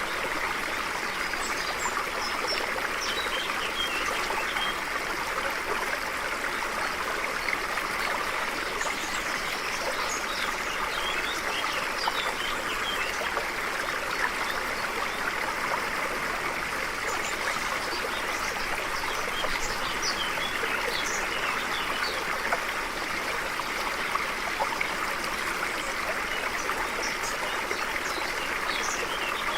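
A stream flowing steadily over stones, with small birds chirping in short scattered calls now and then above the rush of water.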